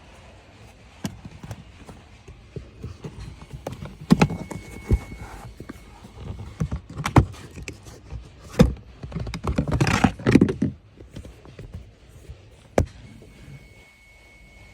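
Irregular knocks, clicks and thunks with some scraping and rustling in between, the loudest cluster about ten seconds in.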